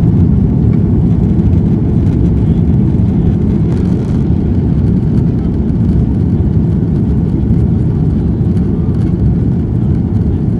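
An airliner's engines and the rush of air, a steady low rumble heard from inside the passenger cabin.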